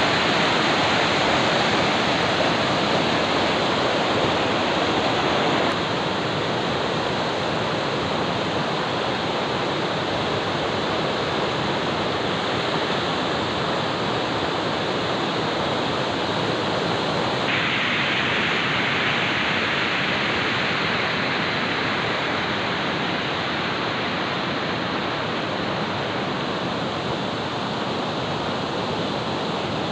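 Rushing river water, a steady loud noise of flowing rapids. Its tone shifts abruptly twice, about six seconds in and again a little past halfway.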